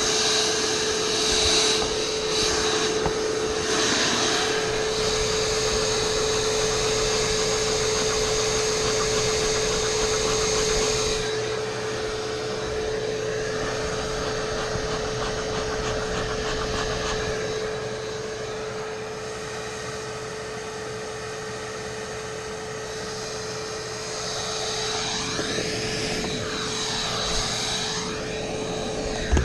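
Bee vacuum running steadily, with a constant motor whine under a rushing suction hiss as bees are drawn in. The hiss eases about a third of the way through, and the sound of the suction shifts back and forth near the end.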